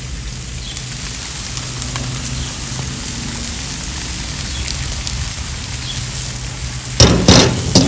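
Food sizzling steadily as it cooks, with a faint low hum underneath. A few sharp knocks of a cooking utensil come close together near the end.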